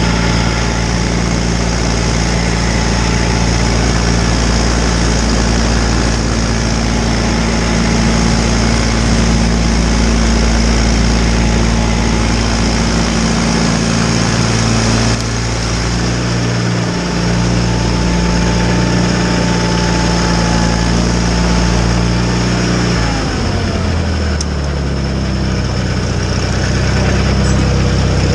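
John Deere 318 garden tractor's Onan two-cylinder engine running steadily, with a thin whine above the engine note. About three quarters of the way through, the engine's pitch falls and settles lower.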